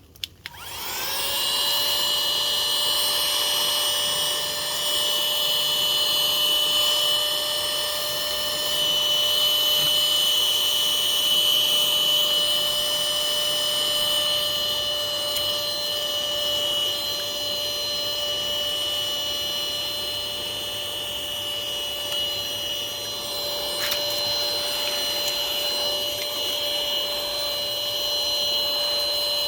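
Portable vacuum cleaner switched on, its motor spinning up to speed within the first second, then running with a steady high whine and rushing air, drawing pollen off the palm flowers. A click sounds once, about 24 seconds in.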